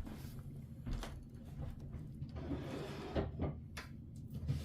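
Scattered soft knocks and handling noises of someone rummaging through craft supplies for a piece of cardstock, like a drawer or storage being opened and shut.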